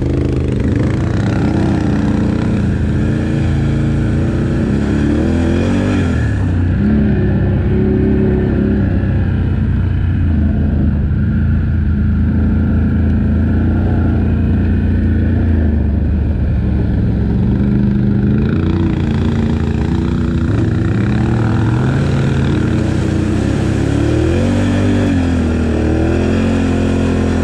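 ATV engine running under load, its revs rising and falling again and again as the throttle is worked.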